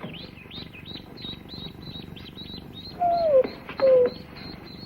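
Newly hatched ducklings peeping continuously, several short high peeps a second. About three seconds in, two louder short falling whines cut in.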